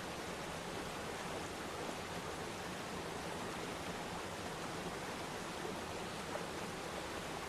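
Waterfall: water falling and splashing into a pool with a steady, even rush.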